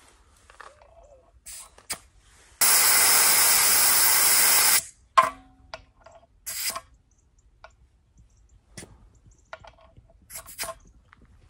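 Compressed air hissing out of a new well pressure tank's air valve as its factory pre-charge is bled down from 50 toward 30 PSI: one steady hiss of about two seconds that cuts off suddenly, then two short spurts. Small clicks and knocks between them.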